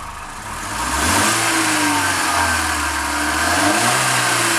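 Volkswagen Jetta engine revved through its stock exhaust, before an aftermarket catback goes on. The revs climb about a second in and hold, then drop and rise again near the end. It is a stock exhaust note that the owners call pretty weak.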